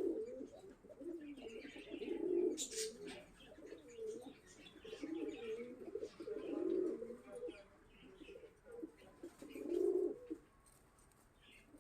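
Pigeons cooing faintly in repeated warbling phrases, with a single short click about three seconds in.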